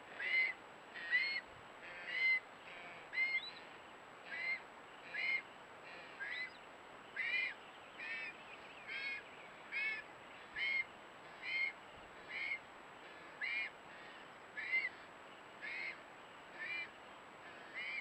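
A bird calling over and over, a short, high call repeated about once a second in a steady rhythm.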